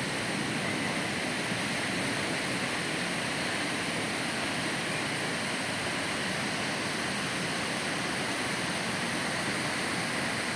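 Steady, even wash of ocean surf breaking on a beach.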